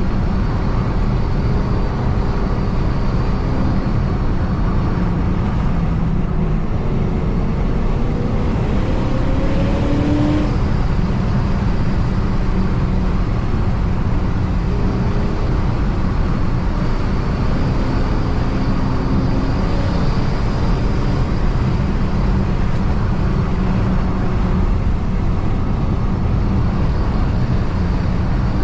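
Supercharged 4.6 V8 of a 2006 Ford Mustang GT running under way, a steady low drone with road noise. The engine note rises twice, as the car accelerates about a third of the way in and again past the middle.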